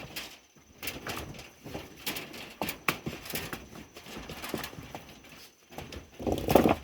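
Irregular knocks and clacks of hard objects being handled at a construction site, with a louder scraping rush near the end.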